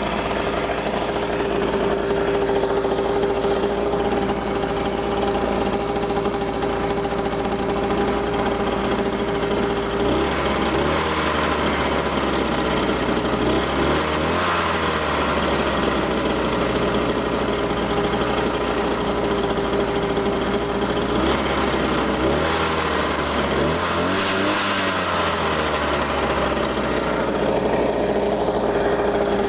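Small petrol engine of a homemade cart running steadily. It is revved up and back down twice, once about a third of the way in and again about two-thirds through.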